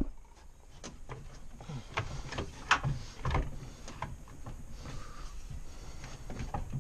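Irregular clicks, clanks and knocks of hand tools and metal parts being handled while mounting an engine, with a sharp knock right at the start.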